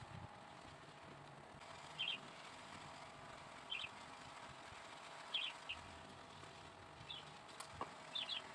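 A small bird chirping, short high two- or three-note chirps repeated about every second and a half, over a faint steady background hum. A single sharp click sounds near the end.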